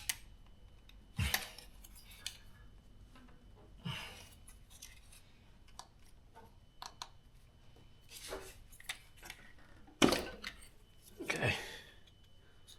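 Scattered clicks, scrapes and knocks of hands working an ignition coil loose and pulling it out of a BMW N52 engine's cylinder head, with a sharp knock about ten seconds in.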